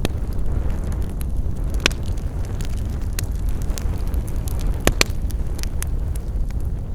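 Wood campfire burning: a steady low rumble under scattered sharp crackles, with two louder pops about two seconds and five seconds in.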